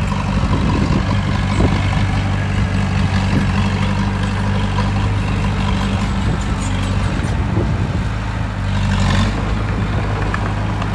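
Heavy diesel earthmoving machinery running steadily, with scattered metallic knocks and clanks over the engine drone. About nine seconds in there is a brief hiss and the engine note drops slightly.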